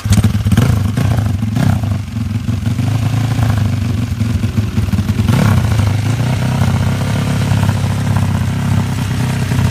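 Motorcycle engine running loudly and steadily, cutting in suddenly, with a few short clattering knocks over it.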